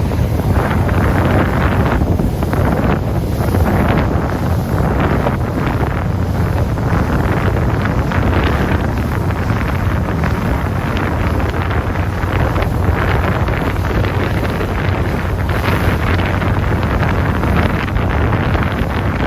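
Steady wind buffeting the microphone on a moving boat, with a low rumble underneath from the boat and water.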